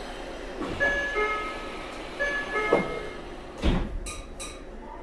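Meitetsu 3500 series electric train: two brief clusters of steady tones, about a second in and again just after two seconds, then a heavy thump about three and a half seconds in, followed by two short high hisses, over a steady low rumble.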